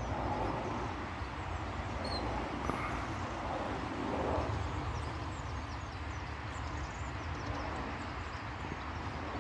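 Steady outdoor background noise: an even hiss over a constant low rumble, with no distinct events.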